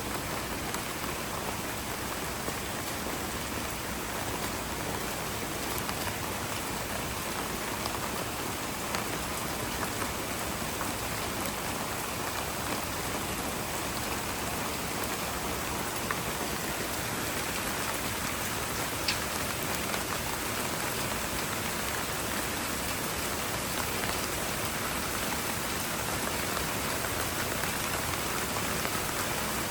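Steady rain falling on hard surfaces, with scattered individual drops ticking through the even patter.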